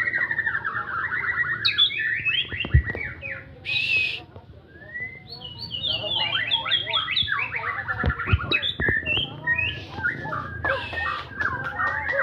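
White-rumped shama (murai batu) singing a fast, varied song of rapidly repeated trilled phrases, whistles and a harsh note, with a few sharp clicks in between.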